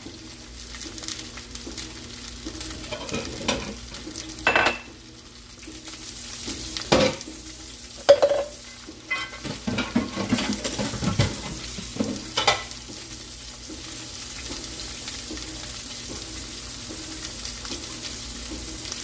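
Beef riblets searing in hot olive and achiote oil in a pan, a steady sizzle, with a few sharp knocks of something against the pan about four and a half, seven, eight and twelve seconds in.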